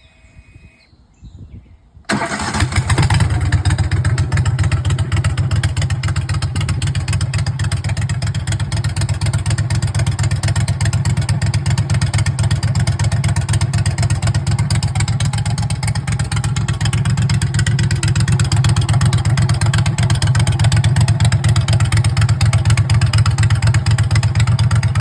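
Mud Buddy 25 hp Kohler EFI mud motor starts suddenly about two seconds in and runs steadily through a new BPS X Wing Lite aftermarket muffler, getting a little louder in the second half.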